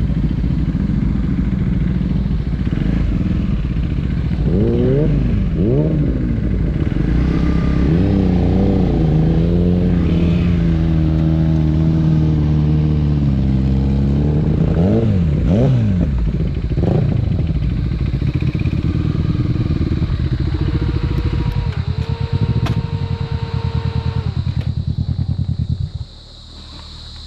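Husqvarna Vitpilen's single-cylinder engine under way, revving up and down with its pitch rising and falling, and running steadily between. The sound drops away sharply about a second before the end.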